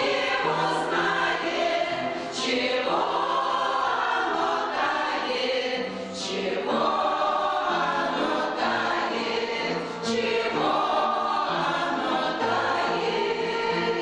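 A choir singing a song together, the voices held in long sung lines with only brief dips between phrases.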